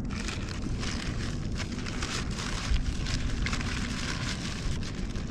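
Crackling, crunching noise of eating a crusty Vietnamese baguette sandwich, many fine crackles over a steady low rumble.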